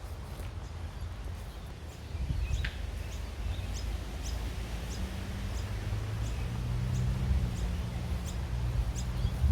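Town street ambience: a small bird chirping repeatedly in short high notes over a low traffic rumble, with a vehicle engine humming steadily from about halfway through.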